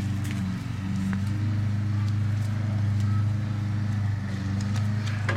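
A steady low mechanical hum with even overtones, holding level throughout, with a few faint clicks over it.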